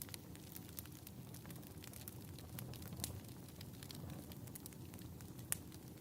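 Fireplace fire crackling: a steady low rumble with scattered small crackles and pops, a sharper pop about five and a half seconds in.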